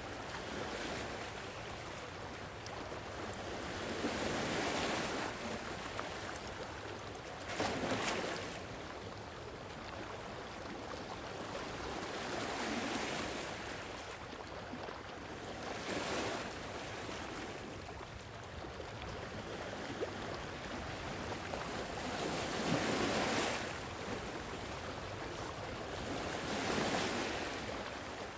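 Gentle sea waves washing onto a shore, each swell building and receding every three to four seconds over a steady wash of surf.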